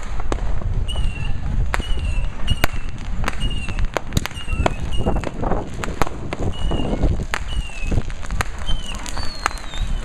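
Fireworks and firecrackers going off in many sharp, irregular cracks over a steady low rumble of distant blasts, with a short, high, falling chirp repeating about once a second.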